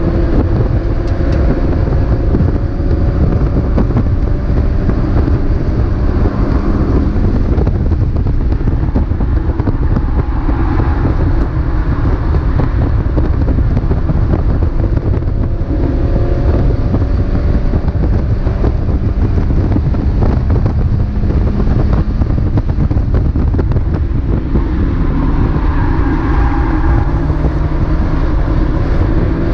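Mazda MX-5 race car's four-cylinder engine heard onboard under racing load, its note rising and falling as the car accelerates and slows through the corners.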